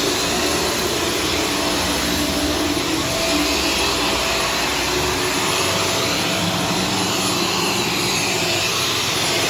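Shark Stratos upright vacuum cleaner running steadily, its motor and suction making an even, unbroken whir.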